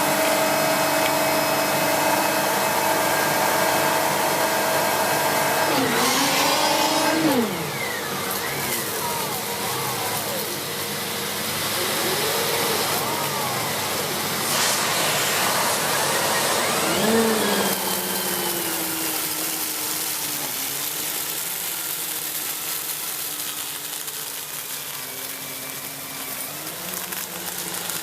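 Siemens Z6.0 Power 2500 W bagged cylinder vacuum cleaner running with its air-driven turbo brush head on carpet, picking up rice. It is a steady hum whose pitch dips and rises in sweeps a few times, and it runs a little quieter after about seven seconds in.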